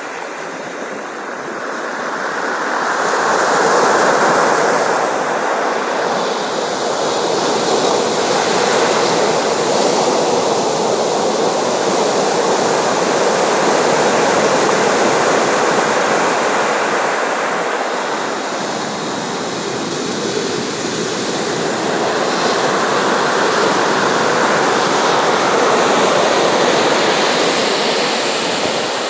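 Sea surf washing ashore in a continuous rush, swelling and easing slowly over several seconds as waves come in.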